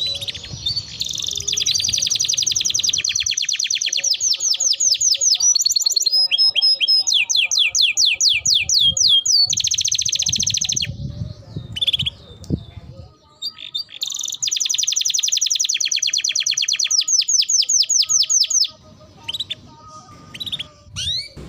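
Domestic canary singing long, fast trills and rolling phrases of rapidly repeated notes, breaking off briefly about halfway and again near the end. It is a vigorous, non-stop song of the kind played to prompt other canaries to sing.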